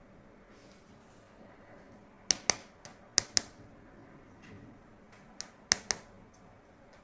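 Sharp clicks, three pairs of them each a fraction of a second apart, with a few fainter ticks between.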